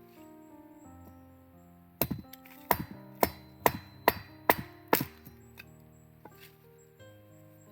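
Machete chopping firewood: about seven sharp blows, roughly two a second, starting about two seconds in and stopping about five seconds in. Quiet background music plays under it.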